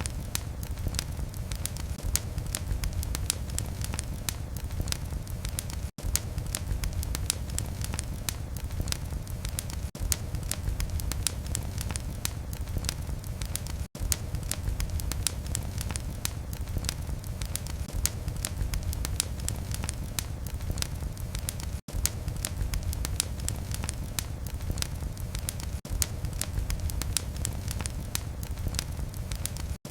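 Wood fire in a fireplace crackling: a dense run of small snaps and pops over a steady low rumble of burning. Brief near-silent gaps break it about every eight seconds.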